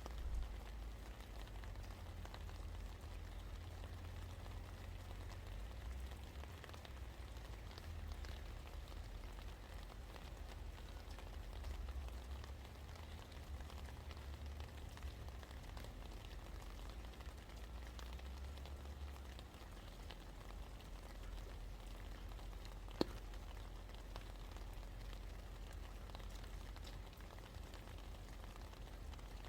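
Steady rain falling and pattering on surfaces, with a low rumble underneath. A single sharp tap stands out about 23 seconds in.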